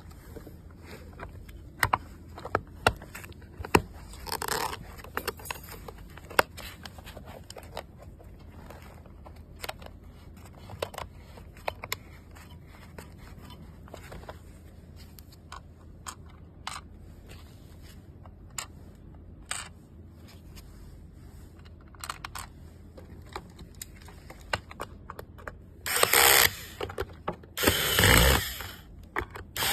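Hands working on small parts: scattered clicks, taps and scrapes of plastic and metal, with a short rasping burst about four seconds in and several louder rasping, rustling bursts near the end.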